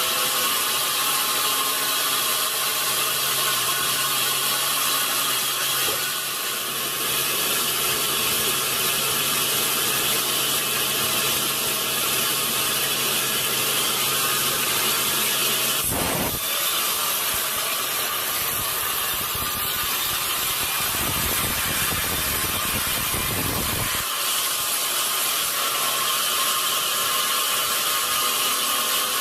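Sawmill machinery running with steady mechanical noise. About halfway through, the sound changes abruptly to a deeper rumble for several seconds, then returns to the earlier steady noise.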